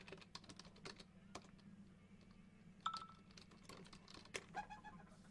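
Faint, irregular light clicks and taps, with one sharper click about three seconds in, over a low steady hum.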